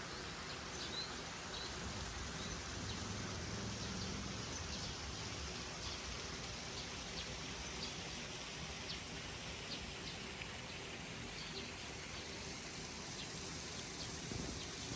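Outdoor nature ambience: a steady hiss with short, high chirps scattered through it.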